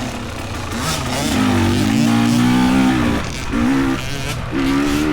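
Small dirt bike engines revving in three bursts, the pitch rising as the throttle opens and dropping back between bursts, as riders work through tight, rooty single track.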